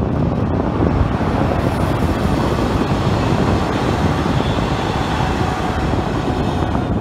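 Diesel multiple unit passing close by, its engine and wheels on the rails making a steady running noise.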